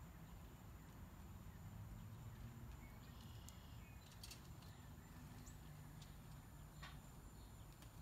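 Quiet outdoor ambience: a low steady rumble with a few faint, short bird chirps scattered through the middle.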